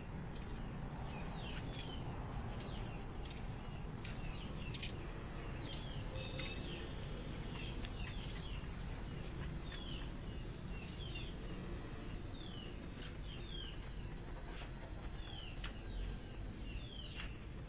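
Small birds chirping repeatedly, short high chirps that fall in pitch, coming every second or so, over a steady low background rumble.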